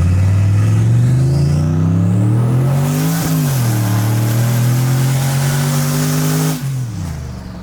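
Turbocharged 6.0 V8 in a Chevrolet Silverado accelerating, heard inside the cab. The engine note climbs for about three seconds, drops sharply at a gear change, then climbs again until it falls away near the end as the throttle is lifted. A faint rising turbo whistle comes early on, and a hiss runs through the second pull.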